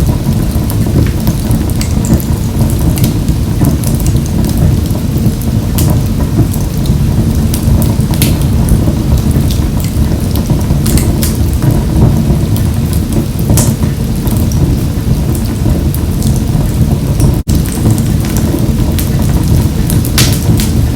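Wood fire burning in a wood-burning stove: a steady low rumble of flames with scattered sharp crackles and pops. The sound cuts out for an instant about 17 seconds in.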